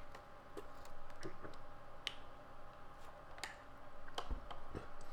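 Someone chewing a sandwich, with scattered small mouth clicks and two soft low knocks near the end.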